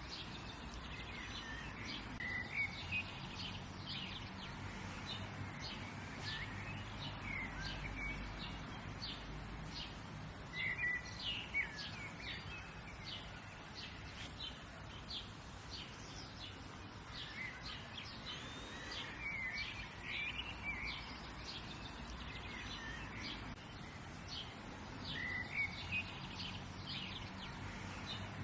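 Several songbirds chirping and twittering in short, repeated calls over a steady low background hum of outdoor ambience.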